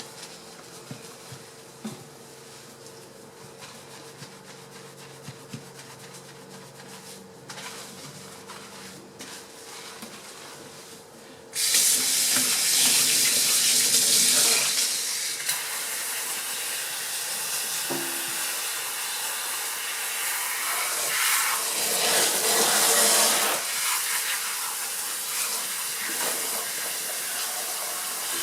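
A quiet room with a few small clicks, then, a little under halfway through, a tap is turned on and water runs steadily, loud and splashing.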